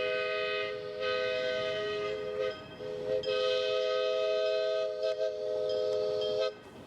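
A 15-inch gauge locomotive's three-note chime sounding a steady chord in two long blasts, with a short break between them about two and a half seconds in.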